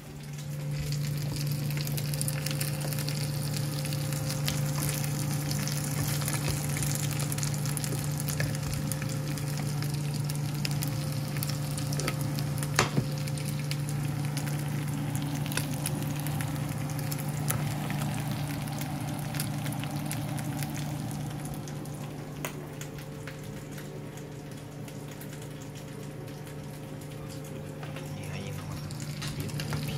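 Chicken pieces sizzling steadily as they fry in a pan on an electric stove, over a steady low hum. One sharp click about halfway through.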